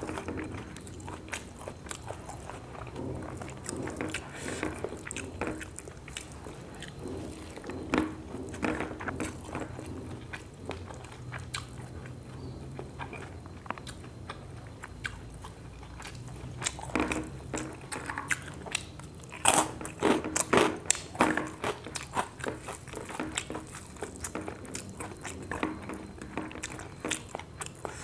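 Close-miked eating by hand: chewing mouthfuls of rice with fried long eggplant and omelette, with many short clicks, most dense about two-thirds of the way in.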